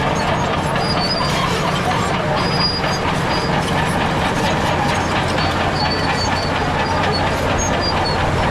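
Bulldozer's diesel engine running steadily, with rattling and clanking from its steel tracks and a few short high squeaks.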